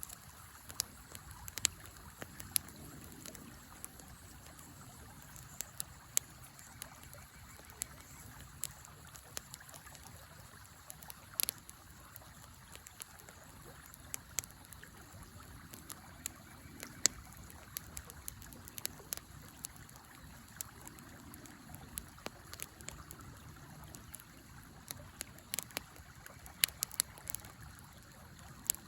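Wood campfire crackling, with irregular sharp pops and snaps scattered through, over the steady rush of a flowing river.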